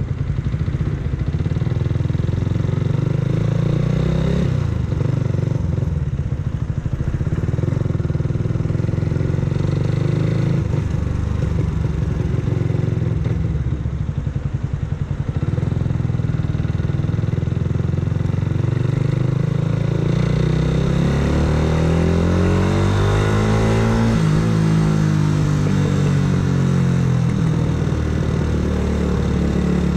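Yamaha R125's 125 cc single-cylinder four-stroke engine, with an aftermarket full exhaust, running under way as the motorcycle is ridden. The revs change as it goes, climbing and then falling back around the last third.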